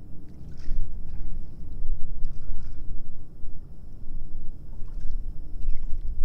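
Wind rumbling on the microphone over a kayak on the water, with a few small water splashes and sloshes.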